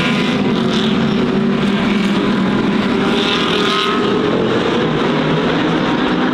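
A pack of GT3 race cars running hard together at a race start, several engines overlapping into one loud, continuous sound. One engine climbs in pitch about four seconds in as it accelerates.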